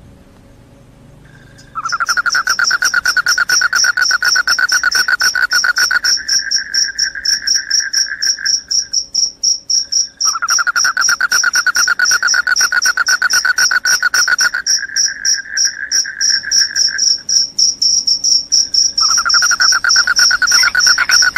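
Crickets chirping loudly in fast, continuous pulsed trills that start about two seconds in, with the lower-pitched trill pausing briefly twice.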